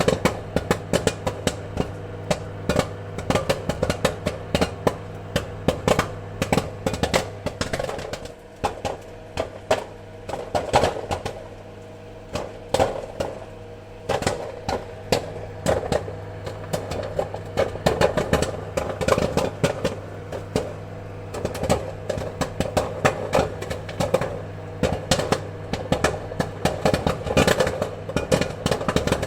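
Popcorn kernels popping in rapid, irregular bursts over a steady low hum. The popping thins out briefly around a third and nearly half of the way through, then comes thick again.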